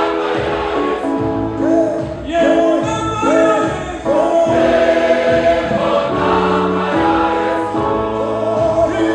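A choir singing a gospel hymn, many voices in harmony holding long notes.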